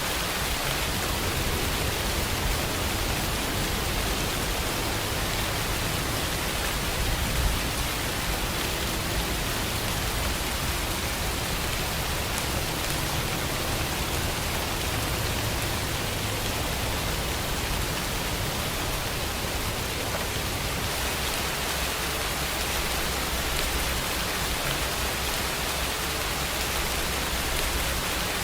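Steady rain, an even unbroken hiss with a low rumble underneath.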